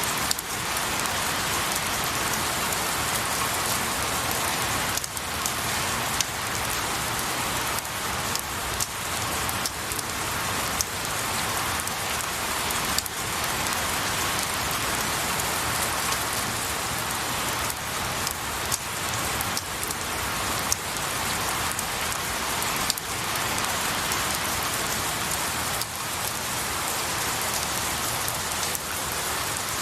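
Steady rain falling on pine needles and a tree, an even hiss with scattered sharper drips every second or so.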